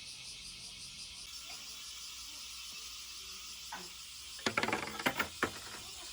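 Steady high-pitched drone of summer insects, with a short cluster of light clinks about four and a half seconds in.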